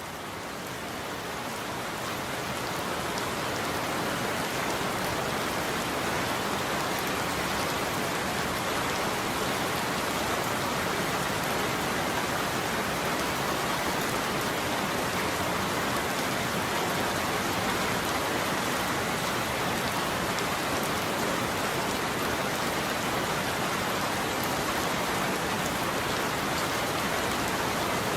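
Steady heavy rain falling on a roof, fading in over the first few seconds.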